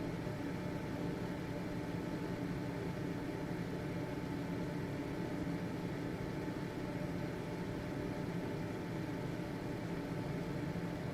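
Household ventilation fan running steadily: an even motor hum with faint steady tones over a broad airy hiss.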